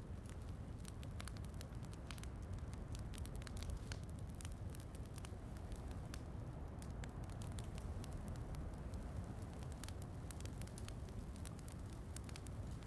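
Wood fire in a fireplace crackling, with frequent small sharp pops over a steady low rumble and a soft hiss of rain.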